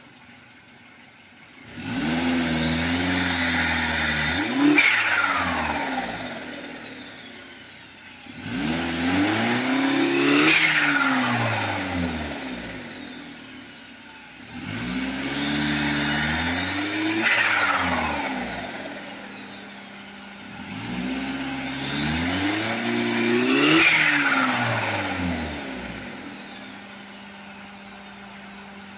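Turbocharged Daihatsu K3-VE four-cylinder engine revved four times, its turbo whine rising with each rev and falling away as the throttle closes, with turbo flutter on lift-off.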